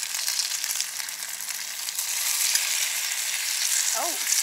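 Batter-dipped sandwich sizzling steadily in a hot cast-iron frying pan over a wood-burning camp stove, a constant crackly hiss of frying egg batter.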